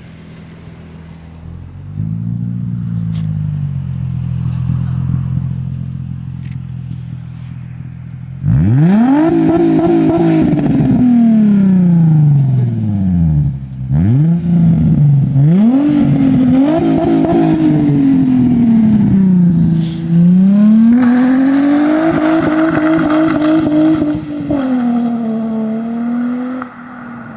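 Infiniti G35's V6 through an Injen aftermarket exhaust, idling with a short blip of the throttle, then revved hard several times, the pitch climbing and falling with each rev. Near the end it is held high for a few seconds before dropping back.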